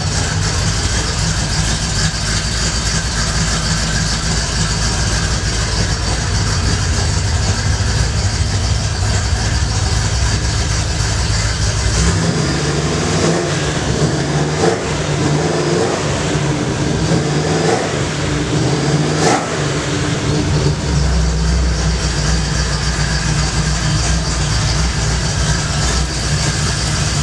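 Car engine idling with a steady low rumble, revved up and down several times in the middle, then settling back to idle.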